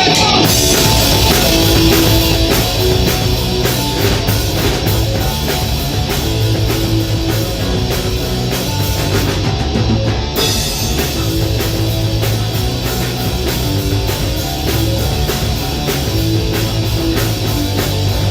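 A live heavy rock band playing the loud instrumental opening of a song, with electric guitar, bass and a full drum kit. The cymbals drop out for a moment about halfway through, then the full band comes back in.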